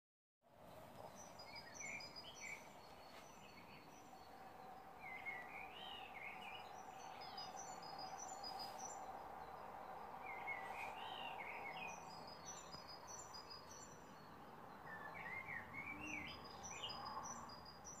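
Songbirds singing short warbled phrases, four of them spaced about four to five seconds apart, each with lower whistled notes and quick high notes together, over a steady faint background noise.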